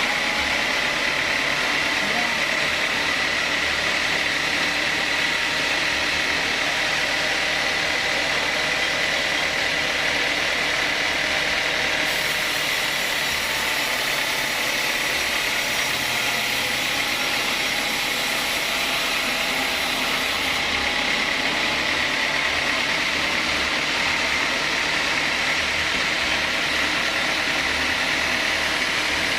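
Sawmill saw running steadily, with a high whine over a steady rush of noise.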